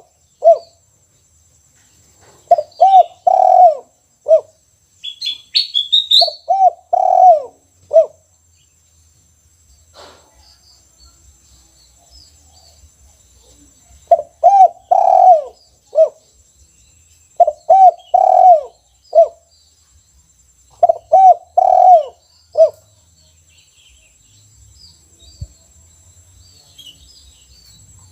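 Caged spotted dove (tekukur) singing its 'kuk 1' song: five cooing phrases of several rising-and-falling coos, each closing with one short 'kuk' note, with pauses between phrases. A small bird chirps briefly about five seconds in, and fainter chirps follow later.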